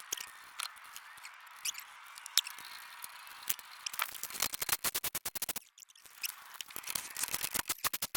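Rapid, dry mechanical clicking in two fast runs with a short pause between them, after a few scattered clicks over a thin hiss.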